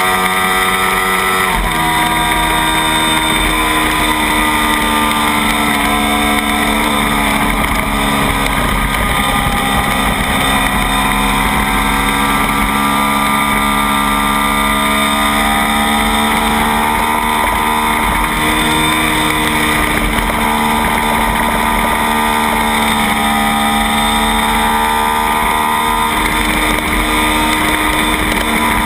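Kawasaki Ninja 250 parallel-twin race engine running at high revs, heard onboard at racing speed, with wind buffeting the microphone. Its pitch steps abruptly about a second and a half in, a gear change, then holds high and wavers slowly as the bike leans through the curves.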